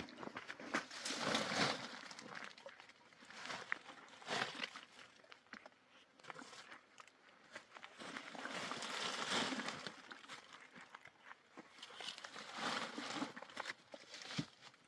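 Irregular rustling and crunching with scattered sharp knocks, coming in three louder stretches: about a second in, around the middle, and near the end.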